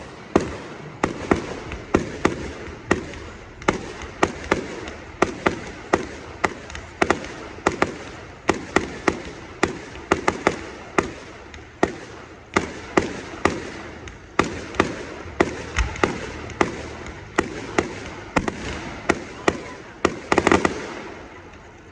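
Aerial fireworks going off in a rapid string of sharp bangs, about two a second, each with a short echoing tail. A dense cluster of bursts comes near the end, then the bangs stop.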